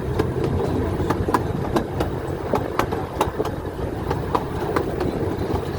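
Zoo train running along its track: a steady low rumble with frequent, irregular clicks and clacks from the rolling cars.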